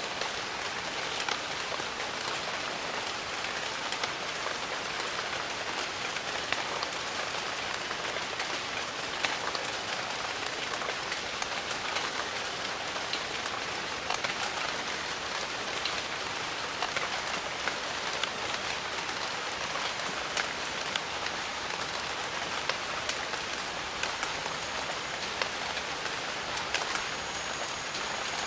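Steady rain in a jungle, with many close individual drops striking among the even rush. A faint, thin high tone comes in near the end.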